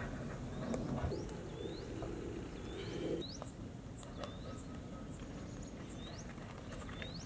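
A small bird calls a short, rising chirp over and over, roughly once a second, against a quiet rural background with a few faint sharp clicks.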